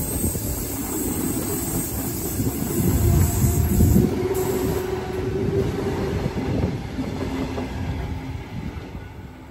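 Sydney Trains Tangara double-deck electric train running past and pulling away, its wheels rumbling on the rails with a drawn-out whine partway through. The sound fades near the end as the rear of the train goes by.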